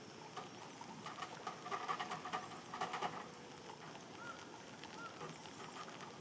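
Faint birds calling over a steady background hiss: a run of chirps in the first half, then two short single chirps a little later.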